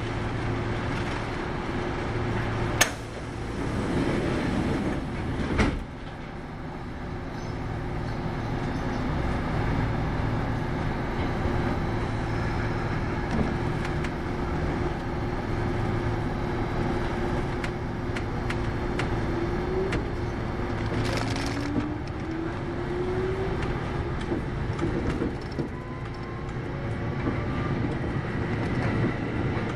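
Running sound from aboard a Kintetsu 8810 series electric train: a steady rumble of wheels on rail with a constant hum. There are two sharp knocks about three and five and a half seconds in, and about two-thirds of the way through a whine rises in pitch.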